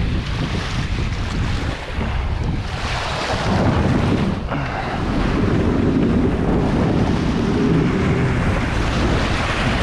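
Strong gusty wind buffeting the microphone, with choppy lake water sloshing and splashing.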